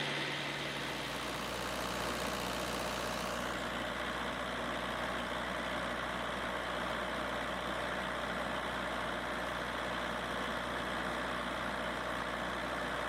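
Kubota V2203 four-cylinder diesel engine running steadily, its sound changing slightly in the first few seconds and then holding even.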